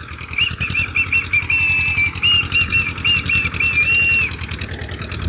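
Mini toy tractor's engine running: a rapid, even chugging. A high, wavering whistle-like tone sounds over most of it and stops shortly before the end.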